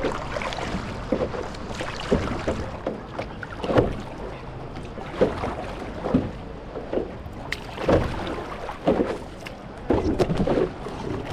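Paddle strokes and water splashing and slapping against a stand-up paddleboard at sea, in uneven splashes about once a second over a steady low rumble.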